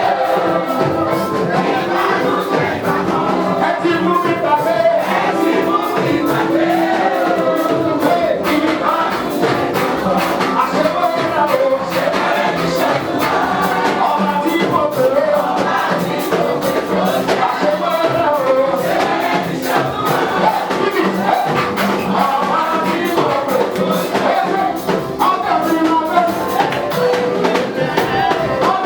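Live gospel praise music: voices singing together over a band with steady drums and percussion.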